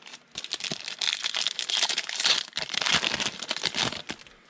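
A football trading card pack's wrapper crinkling and tearing as it is ripped open, a dense crackle from about half a second in until just before the end.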